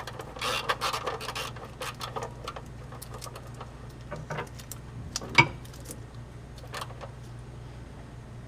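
Irregular metallic clicks, clinks and scrapes of a socket wrench working on the oil-pan drain plug, with one sharp click about five seconds in, over a steady low hum.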